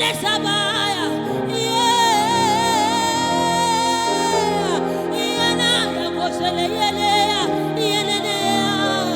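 Worship music: a solo voice sings long, wavering held notes over steady sustained chords.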